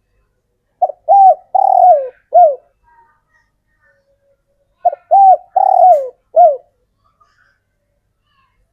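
A male spotted dove cooing its territorial song, two phrases about four seconds apart. Each phrase is a quick pickup note and then three coos, the long third coo sliding down in pitch.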